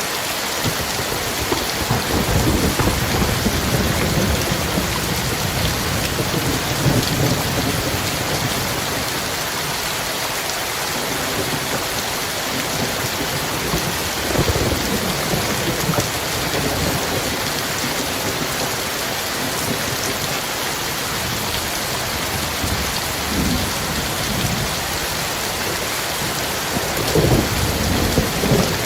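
Heavy rain falling steadily in a dense hiss, with low rolls of thunder rumbling several times, the strongest near the end.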